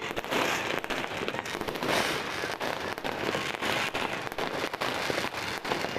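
Dense, continuous crackle of many fireworks and firecrackers going off together, with no pause.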